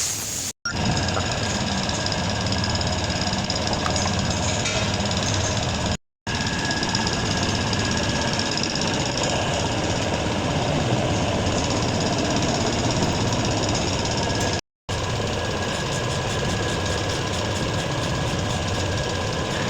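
Jeep Rubicon engine running steadily, in three stretches broken by abrupt cuts.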